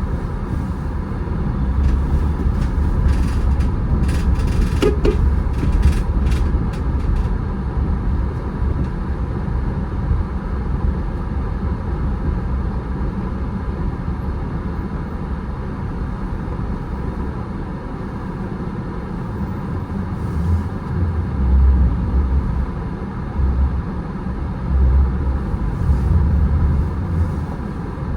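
A car driving, with a steady low rumble of engine and road noise. A run of short clicks comes a few seconds in.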